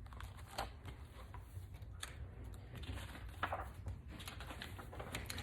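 Faint rustling and a few light clicks of paper: a picture book being opened and its pages turned.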